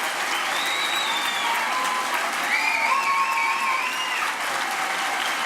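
Large audience applauding steadily, with a few voices calling and whooping over the clapping.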